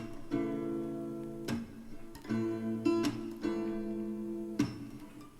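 Background music: a strummed acoustic guitar playing sustained chords, with a new strum about every second.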